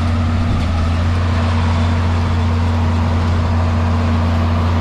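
Tractor engine running steadily under load as it pulls a round baler past at close range.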